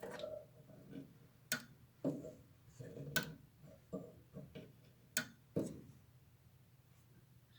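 Combined air conditioner and heat unit clicking and ticking at irregular intervals, about a dozen clicks that stop around six seconds in, over a faint steady hum.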